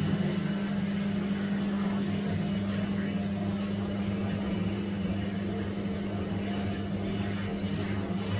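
Bosch washing machine running, a steady motor hum under an even whirring noise.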